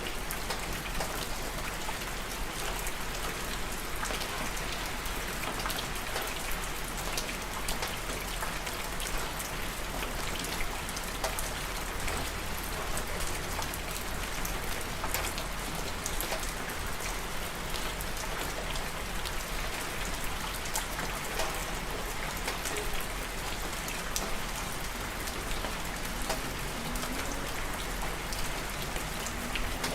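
Steady rain falling, with many individual drops pattering on a surface and no thunder.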